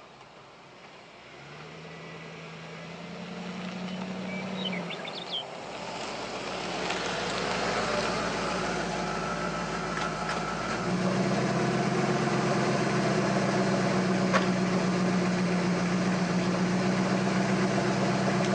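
1994 Ford SVT Lightning's 5.8L V8 idling through Bassani shorty headers, a non-catted midpipe and a Bassani axle-back exhaust. It is faint at first, grows louder over the first several seconds, then holds a steady idle.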